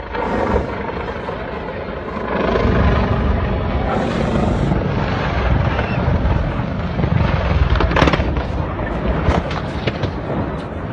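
Helicopter running, a loud rough rushing noise with strong wind-like wash on the microphone, and a sharp crack about eight seconds in.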